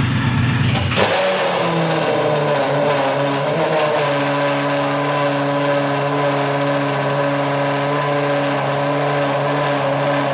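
Straight-piped Lamborghini Gallardo Superleggera V10 with no mufflers, catching about a second in and then running at a steady idle. It is very loud and raspy.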